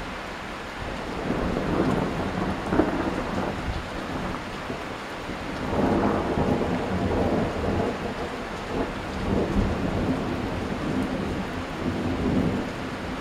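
Thunder rolling in two long waves of rumble, the first with a sharp crack a few seconds in, over steady rain.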